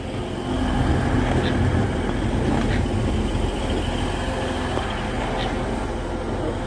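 TransPennine Express class 185 diesel multiple unit running past, its diesel engines giving a steady low drone that swells about half a second in, with a few light clicks.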